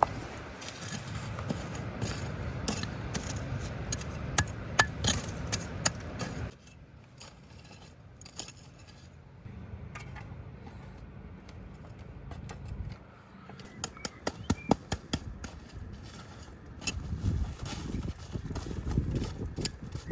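Handling noises: scraping and rustling with many sharp clicks and knocks, easing off about six seconds in, then picking up again with more clicks and rustling near the end.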